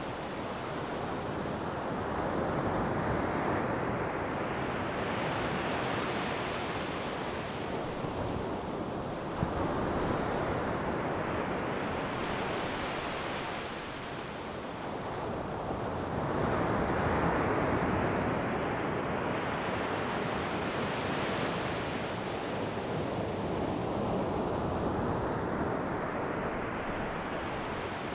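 Ocean waves breaking on the shore and washing back, a steady surf that swells and falls about every seven or eight seconds, four times here.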